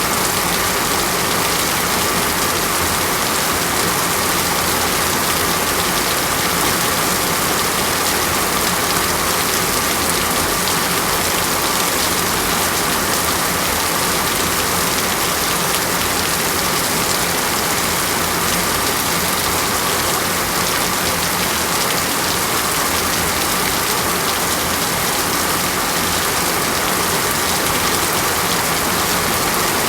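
Steady rain falling on a surface, an even, dense hiss that doesn't let up.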